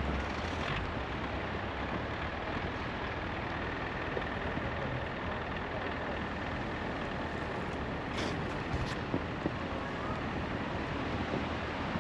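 A motor vehicle running nearby: a steady low rumble under a steady noisy hiss, with a faint steady whine over the first half.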